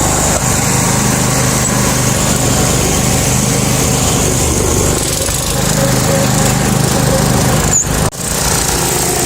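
Garden tractor engine running steadily as the tractor drives along a trail, with a momentary dropout in the sound about eight seconds in.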